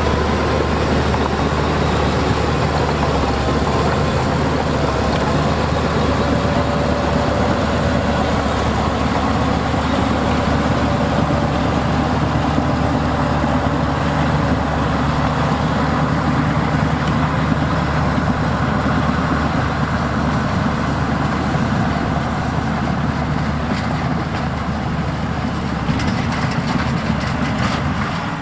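Heavy diesel earthmoving machinery running steadily, with a wavering whine over the engine in the first ten seconds or so.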